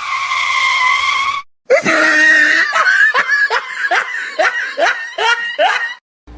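A high-pitched voice: one held cry lasting about a second and a half, then a fast, laughter-like run of about ten short cries rising and falling in pitch, roughly two to three a second.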